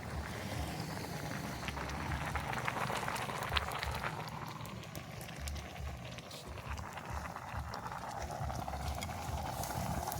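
Food cooking over an open wood fire: a pot bubbling and the fire crackling with many small ticks, over a steady hiss. Irregular low rumbling runs underneath.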